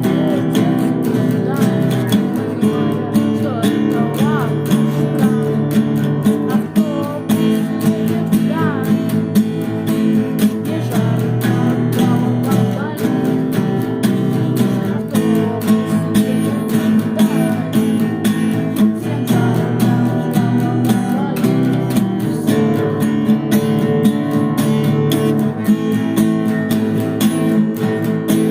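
Song with strummed acoustic guitar chords played steadily throughout.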